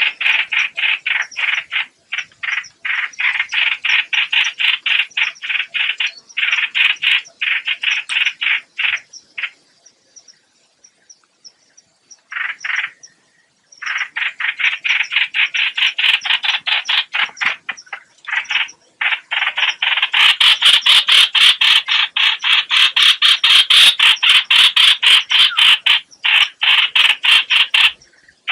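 Recorded lure call of the 'hoạch hoạch' bird: a rapid run of rasping notes, several a second, that breaks off for a few seconds near the middle. It comes back louder and almost unbroken in the last third.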